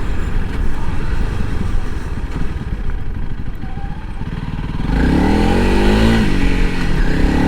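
Honda CRF300L Rally's single-cylinder engine running under way over a steady rushing noise. About five seconds in it gets louder and its pitch rises and falls as the bike is revved through the gears.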